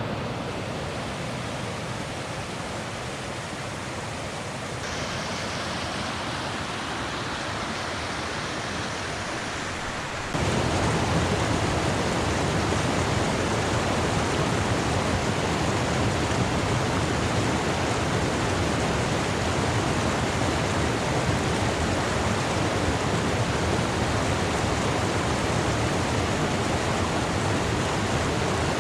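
Steady rushing of falling water from a mountain waterfall, becoming abruptly louder about ten seconds in.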